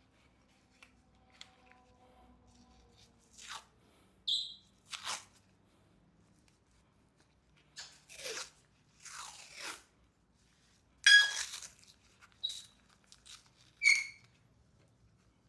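Short scraping and rustling handling noises with a few brief metallic clinks that ring for a moment, as engine parts are picked up and set down; the loudest clink comes about eleven seconds in.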